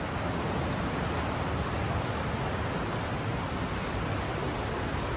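Aare River rushing steadily through a narrow limestone gorge, a constant even rush of water.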